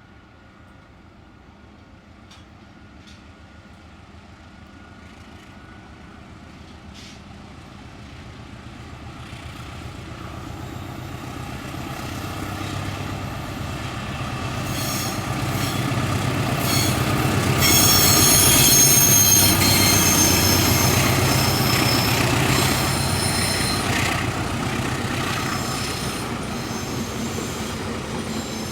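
A diesel-hauled passenger train approaching and passing. The low rumble of locomotive and wheels builds steadily to its loudest about two-thirds through, with high ringing wheel squeal at the peak, then fades as it runs on.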